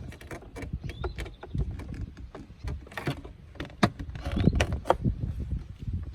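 Irregular clicks and knocks of hands refitting parts in a car's engine bay, over a low rumble, with a few short rising chirps now and then.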